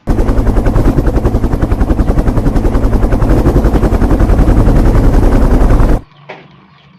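A loud, fast, even rattle of about a dozen pulses a second that stops abruptly about six seconds in.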